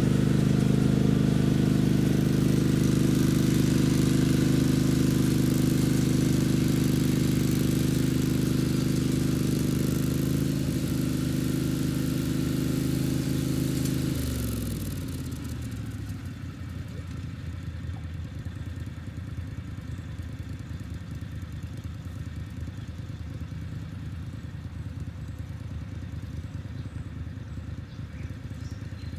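Mini tractor engine running steadily at working speed while driving a tiller. About 14 seconds in, its pitch drops as it is throttled down, and it carries on at a quieter, lower idle.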